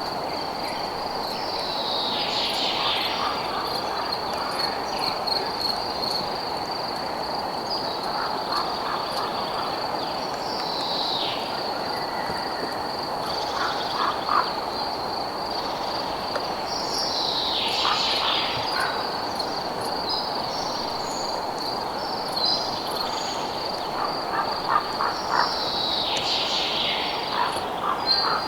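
Night ambience of a continuous high, pulsing insect trill and frogs croaking in short rattling clusters every few seconds, over a steady low rushing hiss. A call that falls in pitch recurs about every eight seconds.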